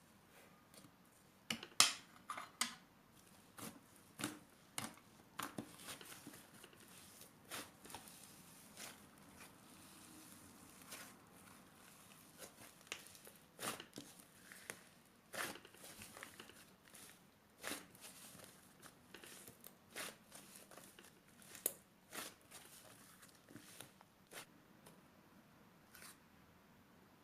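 Irregular sharp clicks and snips with faint crinkling, like small objects or paper being handled and cut by hand, louder around two seconds in and again near the end.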